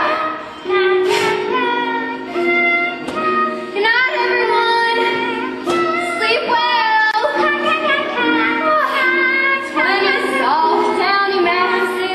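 A child singing a soft lullaby melody over a musical accompaniment of held notes.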